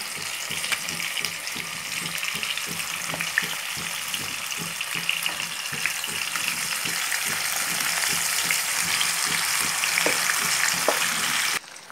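Yogurt-marinated chicken sizzling and crackling as it is dropped into hot oil and ghee with whole spices in a kadhai, a dense crackle that grows louder in the second half as more chicken goes in, then cuts off suddenly just before the end.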